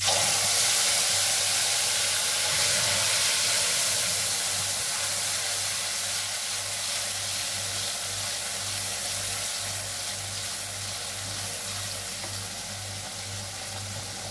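Wet ground onion paste frying in hot oil in a kadhai: a loud sizzle that starts suddenly as the paste hits the oil and slowly dies down while it is stirred with a spatula.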